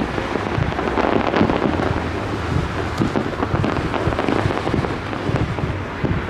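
Fireworks display: many overlapping booms and crackles running together into a steady rumble, with no single burst standing out.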